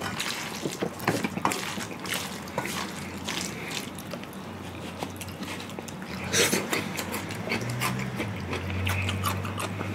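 Close-miked eating of Chapagetti black-bean instant noodles: wet chewing and lip smacks with many short clicks.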